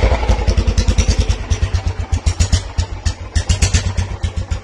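Royal Enfield single-cylinder motorcycle engine idling, a rapid, even beat of low exhaust thumps.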